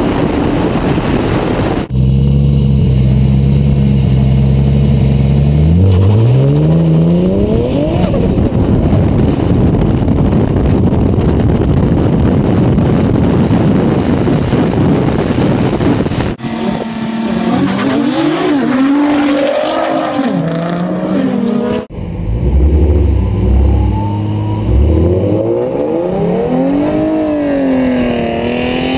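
Racing cars' engines accelerating hard: the engine note held steady, then climbing steeply in pitch as each car pulls away, heard from a camera mounted on the outside of the car. A constant rush of wind and road noise runs underneath.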